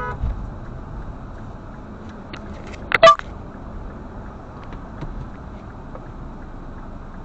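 A car driving, with steady road and engine noise, and a brief loud double sound about three seconds in.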